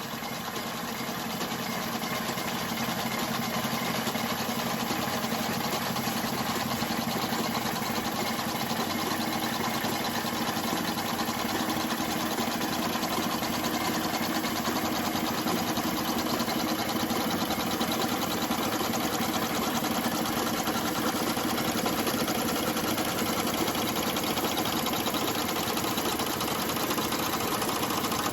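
A live-steam model engine running steadily, with a fast, even mechanical clatter from the small model machinery it drives.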